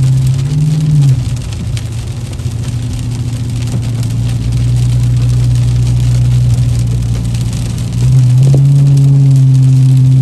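Car engine running at a steady note that drops in pitch about a second in, then picks up again and runs louder from about eight seconds in.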